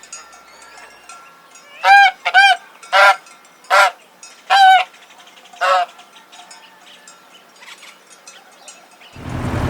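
Goose honking: about six short, loud honks, spaced irregularly between about two and six seconds in. A loud steady noise starts right at the end.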